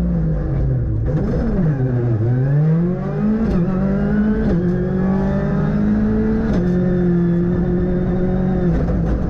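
Ford Fiesta R5 rally car's turbocharged four-cylinder engine, heard from inside the car at stage pace. The revs fall about a second in as the driver backs off, then climb hard, with sharp drops in pitch at gearshifts about three and a half, four and a half and six and a half seconds in, and fall away again near the end.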